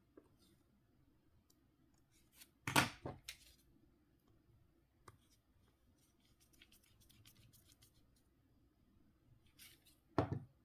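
Small sharp clicks and short scrapes of a Nokia C5-00 mobile phone's parts being handled. The loudest click comes about three seconds in and another near the end, with lighter ticks between.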